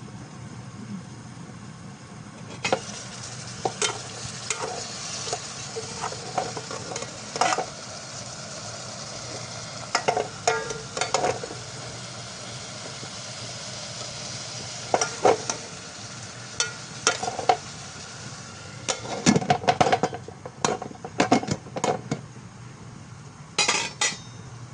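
Milkfish frying in hot oil in a pan, a steady sizzle, with repeated sharp clicks and scrapes of a utensil against the pan, in clusters through the middle and a busier run near the end. A low steady hum lies underneath.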